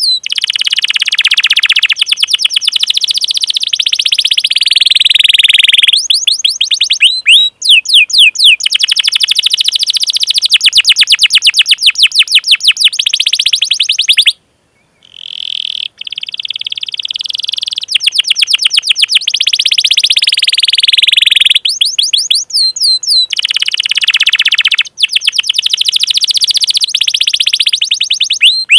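Domestic canary singing: long, very fast rolled trills alternating with runs of sweeping "cuit-cuit" chirp notes, with a brief pause about halfway through.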